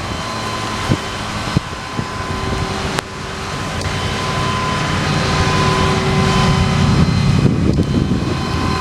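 Ford 6.8-litre gas V10 engine running. A steady whine sits over a low rumble that swells from about three seconds in, and a few sharp clicks come in the first three seconds.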